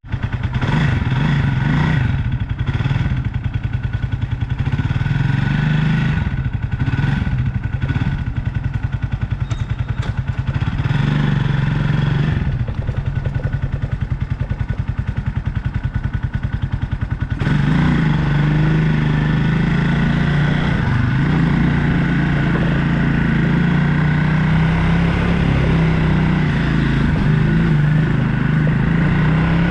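Motorbike engine running steadily while riding, heard from the bike. About halfway through the engine note gets louder and fuller, and it rises slightly near the end as the bike speeds up.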